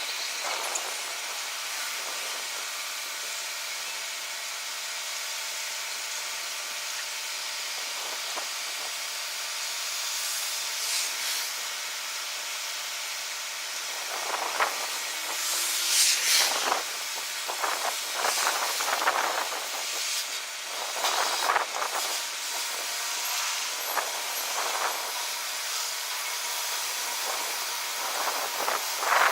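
Steady rushing hiss of snowstorm wind, with a run of loud irregular gusts from about halfway through, buffeting the microphone. A faint steady hum sits underneath.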